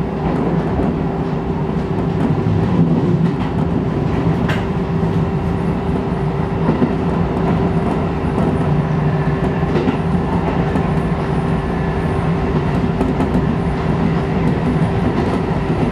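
Shin-Keisei electric commuter train running at speed, heard from inside the front car: a steady rumble of wheels on rails with a constant hum, and a couple of sharp clicks from the track.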